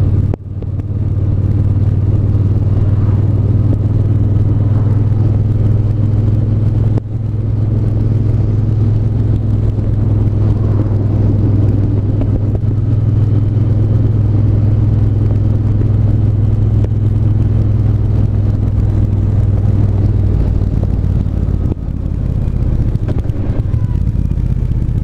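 Triumph 1200 cc parallel-twin motorcycle engine running steadily on the move, its note dipping briefly three times and settling lower near the end.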